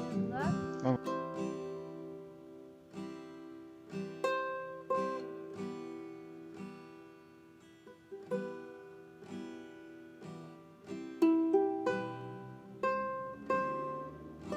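Background music on a plucked acoustic string instrument. It plays a slow melody of single notes, each picked and left to ring out, after a busier, louder flourish in the first second.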